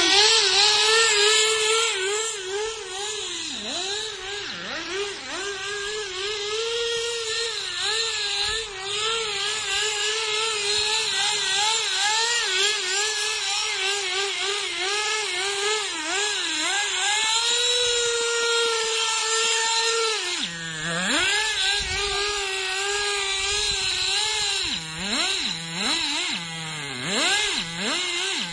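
.18-size nitro RC car engine running at high revs, its pitch wavering a little. About two-thirds in it drops sharply, then it is revved in repeated quick blips near the end. This is its first run after a rebuild, not yet tuned.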